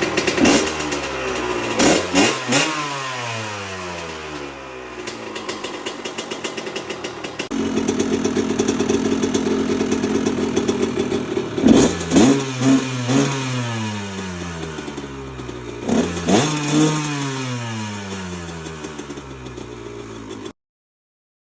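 1998 Honda CR125R's two-stroke single-cylinder engine being revved in sharp throttle blips, the revs sliding down after each one, with a steadier stretch of running in the middle. The sound cuts off abruptly near the end.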